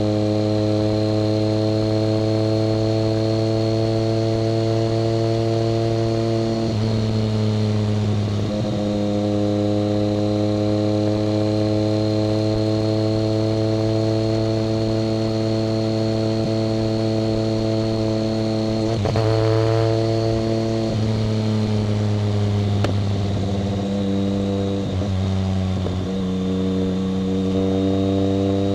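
1990 BMW K75's three-cylinder engine running under way at steady revs. The engine pitch changes briefly a few times, about seven seconds in, around twenty seconds and again near twenty-five seconds.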